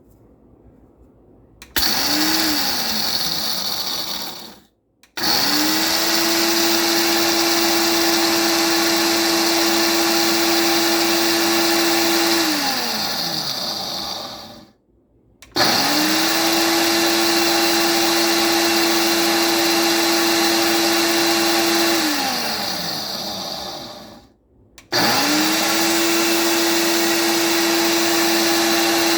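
Ninja Pro blender motor driving the coffee and spice grinder attachment, grinding whole coffee beans in pulses. After a short first burst it runs in stretches of about seven seconds at a steady pitch, each one winding down before the next start, with the fourth run still going at the end.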